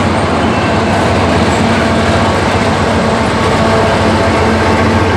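A mid-train CP AC4400CW diesel-electric locomotive, with a GE V16 diesel engine, running steadily as it passes close by. Its engine drone sits over the continuous rumble and clatter of double-stack intermodal cars rolling on the rails.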